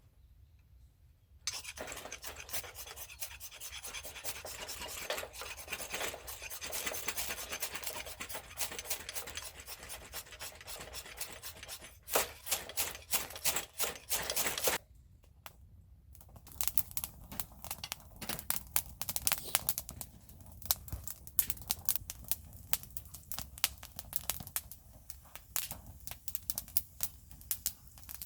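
Rubbing and scraping, thick with small sharp clicks. It stops for a moment a little past halfway and then resumes.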